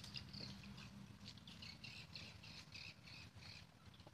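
Faint ambience with a small bird chirping, a quick run of short high notes about four a second, beginning about a second in and lasting a couple of seconds.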